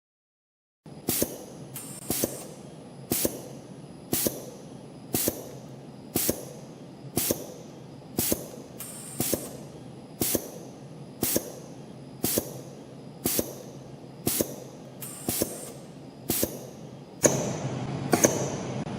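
CNC compression-spring coiling machine (YHM CF-303) running, coiling 0.05 mm wire. A sharp click comes about once a second, the cutter parting off each finished spring, over a steady running noise. Both get louder near the end.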